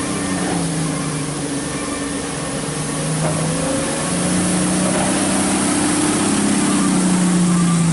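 Engine running steadily, its pitch shifting up and down, getting somewhat louder about halfway through.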